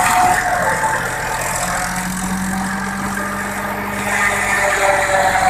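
An engine or motor running steadily.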